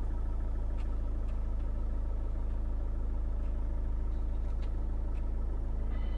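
Car engine idling steadily with an even, low hum.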